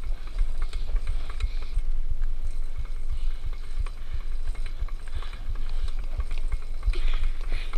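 A child's bicycle rolling along, with irregular clicking and rattling from its mechanism, over a low rumble of wind on the microphone.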